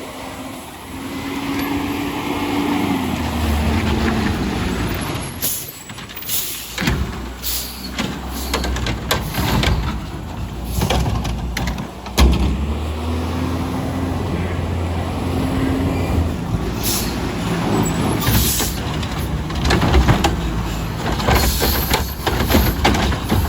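Garbage truck's engine revving up twice to run the hydraulic packing and lifting gear, with a run of sharp knocks and clattering from the collection work.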